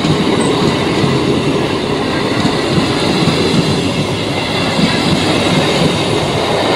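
Coaches of an Indian Railways passenger train passing close by at speed: a steady, loud noise of steel wheels running on the rails.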